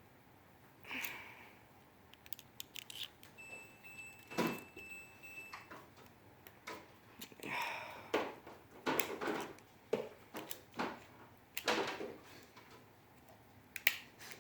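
Metal coat-hanger wire being bent and twisted by hand, making scattered clicks, light knocks, rattles and scrapes. A faint steady high tone sounds for about two seconds in the first half.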